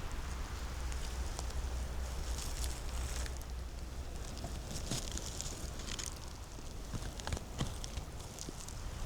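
Footsteps on leaf litter, with scattered crackles of twigs and rustling of dry leaves, over a steady low rumble.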